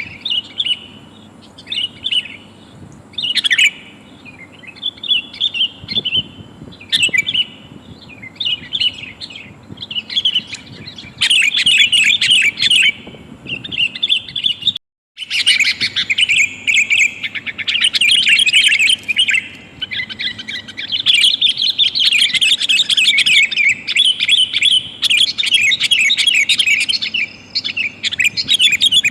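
Sooty-headed bulbul calls, billed as a female calling to a male and used as a lure for trapping wild bulbuls. Scattered chirps for the first several seconds, then rapid, dense chattering from about a third of the way in, broken once by a brief total dropout about halfway through.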